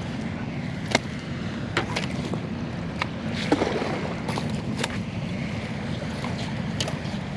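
Steady low rumble with scattered sharp clicks and taps, about a dozen at irregular intervals, as a deeply hooked northern pike thrashes while being handled for unhooking.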